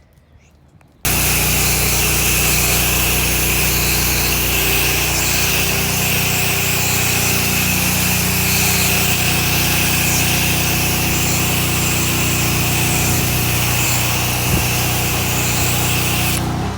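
Gas-engine pressure washer running steadily with the hiss of its water spray. It cuts in abruptly about a second in and falls off just before the end.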